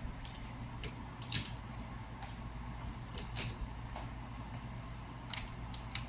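A few light clicks and taps of plastic toy cars and track pieces being handled, over a steady low hum.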